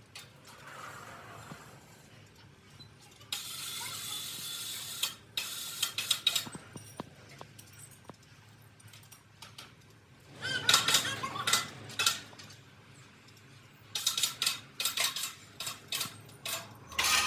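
Metal parts clinking and clattering in irregular bursts of sharp knocks, with a steady hiss lasting a couple of seconds about three seconds in.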